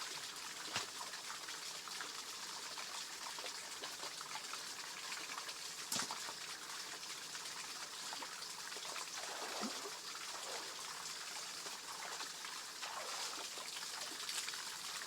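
Shallow water running and trickling steadily over a small cascade in a paddy-field channel, with a sharp knock or splash about a second in and a louder one about six seconds in.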